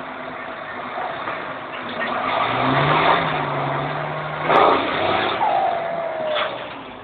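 New Holland TM190 tractor's turbocharged diesel engine revving up about two and a half seconds in and holding, then a sharp knock about halfway through as the revs drop. After the knock the turbo whistle falls in pitch as it spools down.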